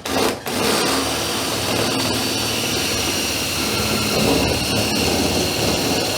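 A machine starts up abruptly, surges twice, then runs loudly and steadily.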